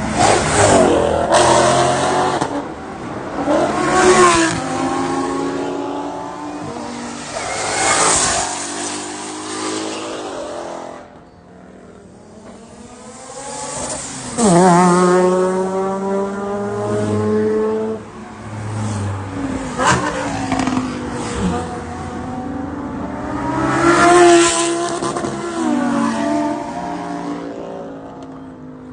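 Car engines revving hard and accelerating, the pitch climbing and falling, with several loud surges as cars pull away.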